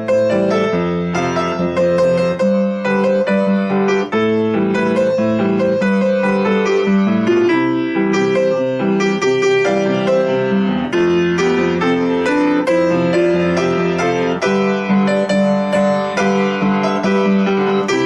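Solo piano playing a pop-song arrangement: a melody over repeated chords struck at a steady rhythm.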